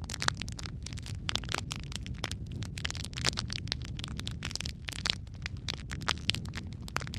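Wood fire of burning logs crackling, with many irregular sharp pops and snaps, several a second, over a steady low rumble of the flames.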